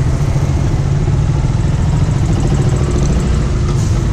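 Motorcycle engine running steadily at low speed in traffic, a dense low rumble with road noise around it.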